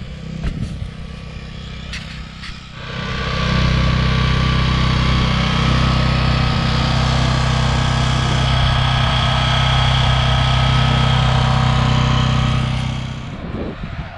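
Farm tractor engine running, rising to a much louder steady drone with a high whine about three seconds in, then easing back down near the end.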